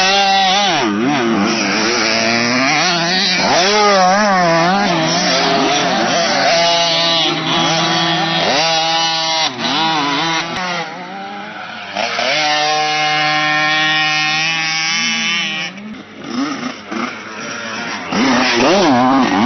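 Motocross bike engines revving, the pitch rising and falling again and again, with a stretch held at a steady pitch about twelve seconds in.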